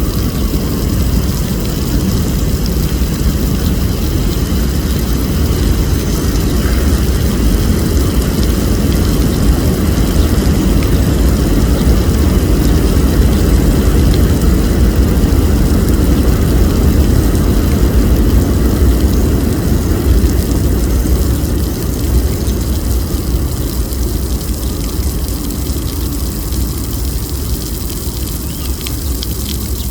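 Low rumble of a passing vehicle in city traffic, swelling to a peak about halfway through and then fading.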